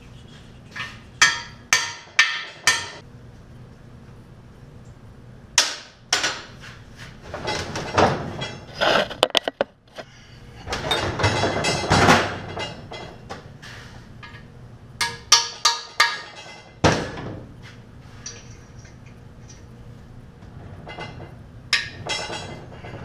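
Hammer blows on metal during a small-block Chevy engine teardown, sharp ringing strikes in quick groups of two to five. A longer, rougher stretch of metallic clatter comes in the middle.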